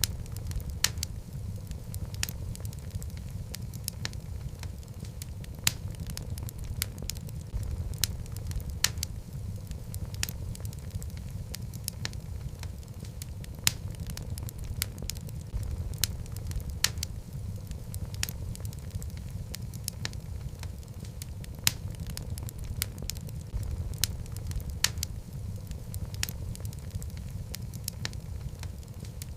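Wood fire of burning logs in a fireplace: a steady low rumble of flame with irregular sharp crackles and pops, a few of them louder than the rest.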